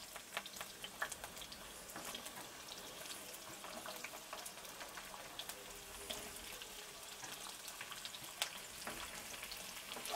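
Cauliflower florets frying in hot oil in a kadhai: a steady light sizzle with scattered crackles and pops as more florets are dropped in by hand. A wooden spatula starts stirring them near the end.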